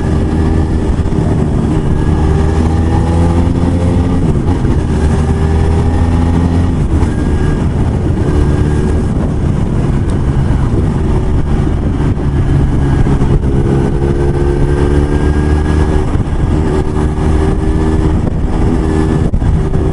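Motorcycle engine running under way. Its pitch climbs and then drops several times as the rider accelerates and shifts through the gears.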